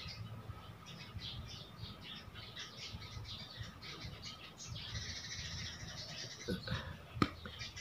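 Faint, irregular chirping of small birds over a low steady hum, with one sharp click near the end.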